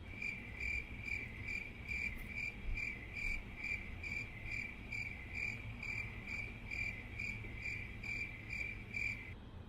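Cricket chirping sound effect, used as an awkward-silence gag: evenly spaced chirps about three a second that start abruptly and cut off suddenly near the end.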